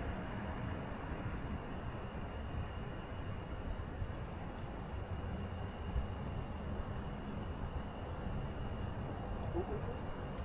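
Steady outdoor background noise by a river, a low rumbling hiss with no distinct events, over a faint steady high-pitched tone.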